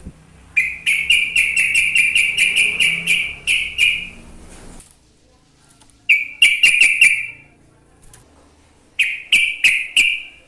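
Yellow-vented bulbul (trucukan) singing in rapid runs of repeated notes. A long run lasts about three seconds, followed by two short bursts about six and nine seconds in.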